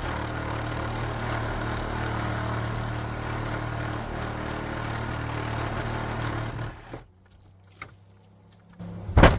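A motor running steadily with a low hum, stopping abruptly about seven seconds in. Near the end comes one sharp knock, the chicken coop door shutting.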